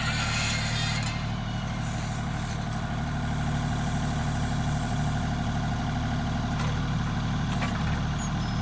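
An engine running steadily at low speed, a constant low hum, with a short burst of hiss right at the start.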